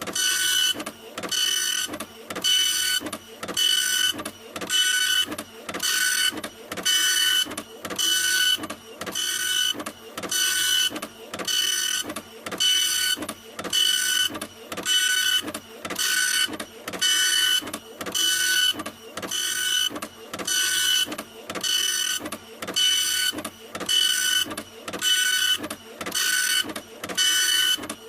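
Printer running continuously, its print head moving back and forth in even passes of about one a second. Each pass carries a steady motor whine over mechanical rattle.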